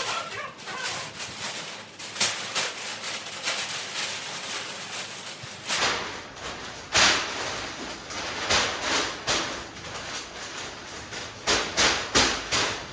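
Cardboard boxes and packaging being handled and opened: rustling, with many sharp clicks, rips and thumps.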